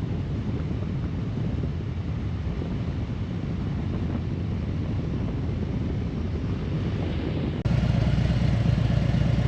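Harley-Davidson Road Glide Limited's V-twin engine running on the move, a steady low drone. About eight seconds in the sound changes abruptly to a louder, clearer engine note.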